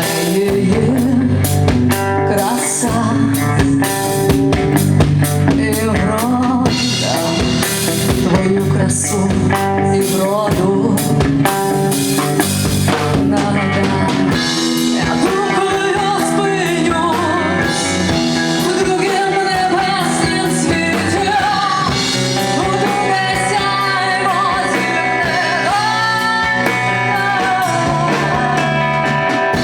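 Rock band playing: drum kit, bass and electric guitars at a steady loud level. A wavering lead melody comes to the front about halfway through.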